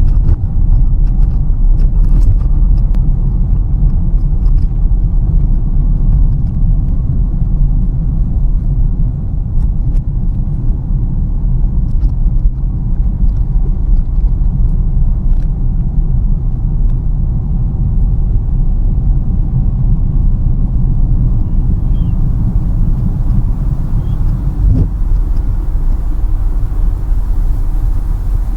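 Steady low rumble of a car's engine and tyres on the road, heard from inside the cabin while driving. Small faint ticks sound now and then in the first half, and a light hiss comes in over the last several seconds.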